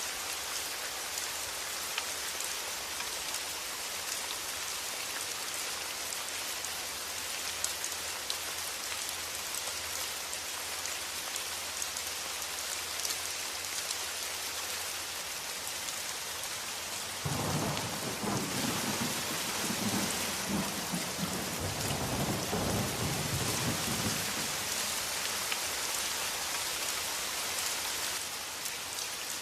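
Steady rain, with a low rumble of thunder that starts suddenly a little past halfway and rolls on for about seven seconds before fading.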